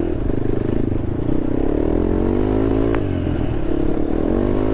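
Honda TRX sport quad's engine running under way off road. The revs rise for about a second and a half, drop back suddenly with a sharp click about three seconds in, then hold steady.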